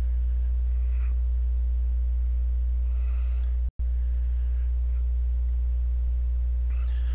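A steady low electrical hum, with faint evenly spaced higher tones above it, cutting out for a split second a little past halfway.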